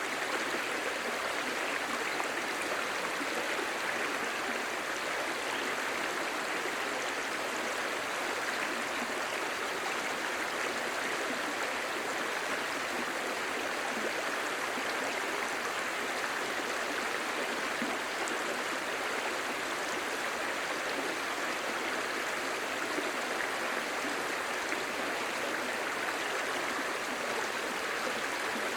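Clear shallow stream babbling steadily over stones, an even rushing with a fine gurgle and no pauses.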